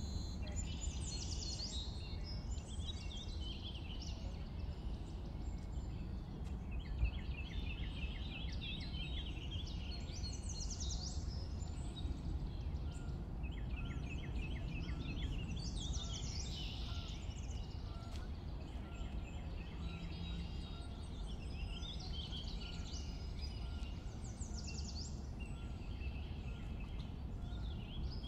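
Songbirds singing in repeated short phrases and trills every few seconds over a steady low background rumble.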